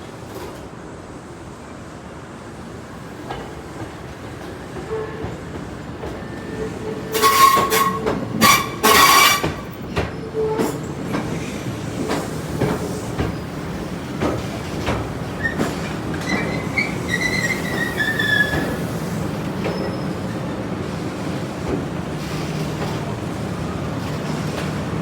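Iyotetsu 700 series electric train arriving at a platform, with wheels clacking over rail joints. Loud wheel squeals come about a third of the way in, then a squeal falls in pitch as it slows. A steady low hum carries on as it comes to a stand.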